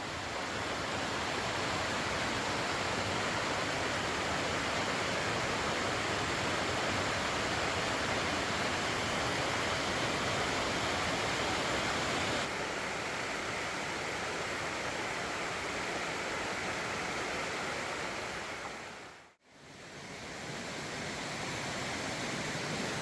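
Heavy rain falling, a steady hiss. It cuts out briefly about nineteen seconds in and comes back.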